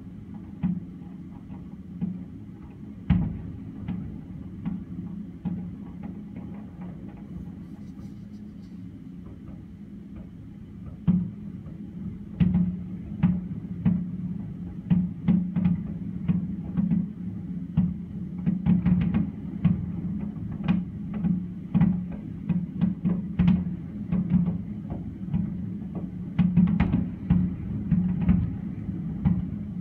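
Fireworks shells bursting with sharp bangs, a few scattered ones at first, then coming rapidly one after another from about eleven seconds in, over a steady low hum.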